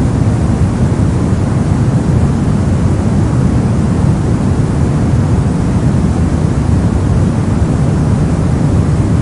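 Steady soft noise for sleep: an even, unchanging rush of synthetic noise weighted toward the low end, deep and muffled rather than hissy.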